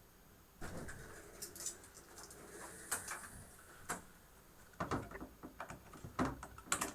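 Clicks and scrapes of small hard parts being handled on a motherboard, starting about half a second in, with several sharper clicks: a CMOS coin-cell battery being swapped out.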